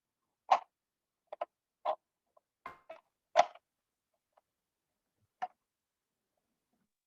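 About eight short clicks and taps, spaced irregularly. Most come in the first three and a half seconds, and one more comes about five and a half seconds in.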